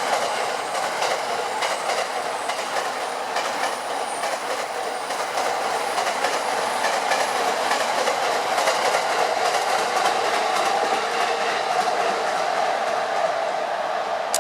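E231 series electric commuter train passing close by, with a steady rush of running noise and a rapid clickety-clack of wheels over rail joints.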